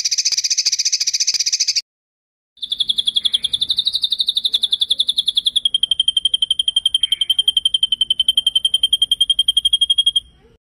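Songbird's high, rapid rolling trill ('ngeroll'). A short buzzy burst, a brief pause, then a long even trill of about ten notes a second that drops slightly in pitch about halfway through and stops shortly before the end.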